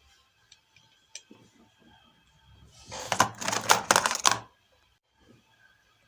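Scattered light clicks, then about a second and a half of loud rapid clattering and scraping: hand work with small tools and parts on a workbench during a circuit-board repair.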